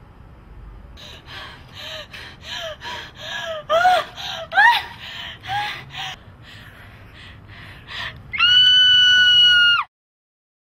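A woman's terrified screaming: a run of short, high shrieks and gasps, each rising and falling, about three a second. Then comes one long, loud, high scream held at a steady pitch for about a second and a half, which cuts off suddenly.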